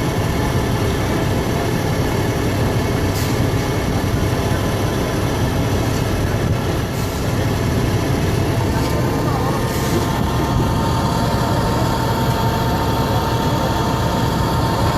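Heavy diesel engine of a concrete pump truck running steadily, with a steady whine joining in about halfway through.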